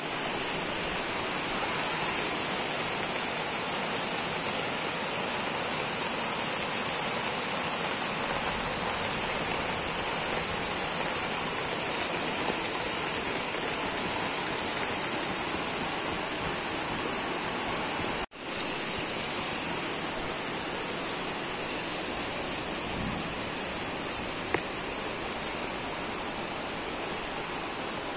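Heavy rain and flowing floodwater: a steady, even rushing hiss. It drops out for an instant about 18 seconds in.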